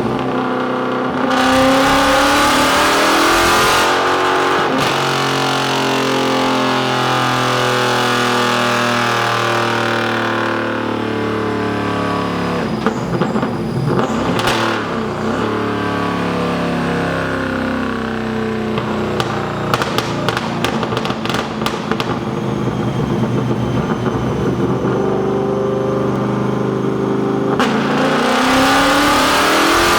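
Camaro V8 on a chassis dyno: the engine climbs in revs at full throttle, lets off about four seconds in and winds down slowly, with exhaust crackles and pops on the overrun. Near the end it climbs again into the next pull.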